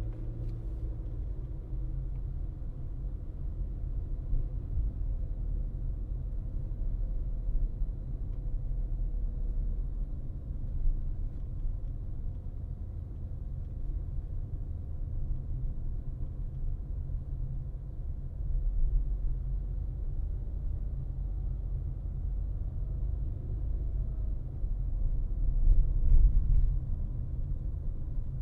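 Car driving on a road: a steady low rumble of tyres and engine, swelling a little twice in the second half.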